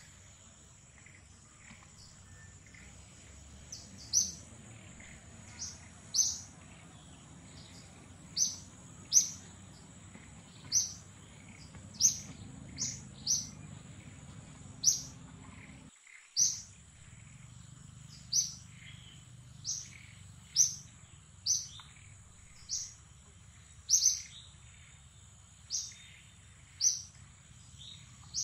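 A bird calling with short, high chirps repeated about once a second, starting about four seconds in, over a steady high-pitched drone.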